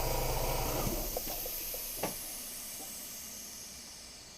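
BMW E46's four-cylinder petrol engine idling, then switched off about a second in, its last run before removal. A hiss fades away after shutdown, with a few light ticks and one sharper click.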